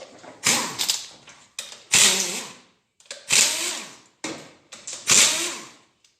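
Hand-held power tool spun in about half a dozen short bursts, each starting sharply and winding down, as it undoes the bolts of the timing chain shoe and damper on a G4NA engine.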